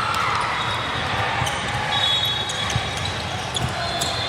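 Basketball game sounds in a gym: the ball bouncing on the hardwood against a steady hall din, with short high squeaks now and then.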